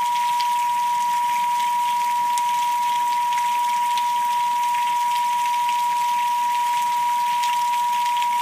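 A steady, unwavering pure tone just under 1 kHz, a synthesized meditation frequency, held over a recording of rain with scattered drop ticks.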